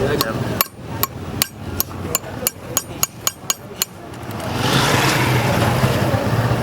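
A hammer tapping, about ten sharp strikes at roughly three a second, then steady street and traffic noise building up.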